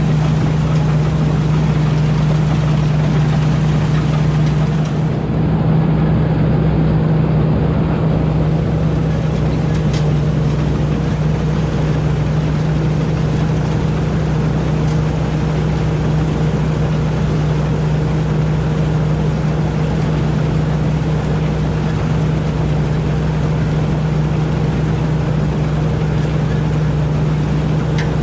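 Rice combine harvester's engine running steadily under load, a constant low hum with a dense mechanical rush over it.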